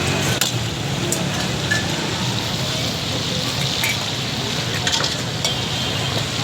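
Chicken frying in hot oil in a karahi, a steady sizzle with a few sharp clicks.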